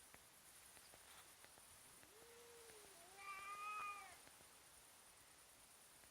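A cat's drawn-out threatening yowl, a caterwaul from a cat squaring off with another. It is one call of about two seconds that starts low and swells louder and higher about halfway through.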